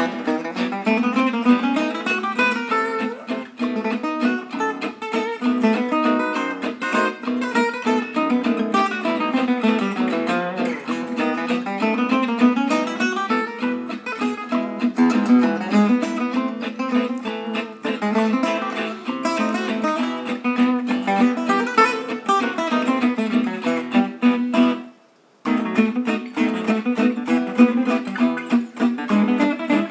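Background music of quickly picked acoustic guitar, with a brief break about 25 seconds in.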